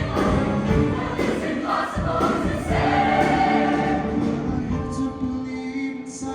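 Show choir singing with live band accompaniment; about five seconds in the low percussion thins out, leaving long held sung chords.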